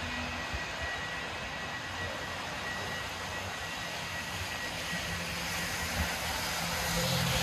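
Steady hiss of rain with the low rumble of city traffic; a vehicle's engine hum builds toward the end.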